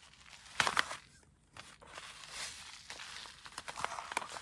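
Plastic desiccant moisture-absorber packet being handled and crinkled, with a loud rustle about half a second in, then quieter crackling and small clicks.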